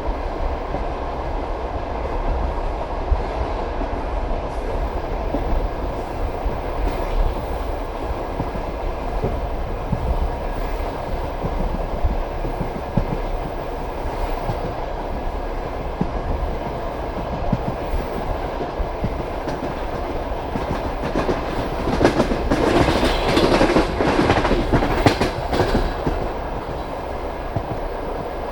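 Passenger train carriage running on the rails: a steady rumble with wheels clattering over the track. It grows louder for a few seconds near the end.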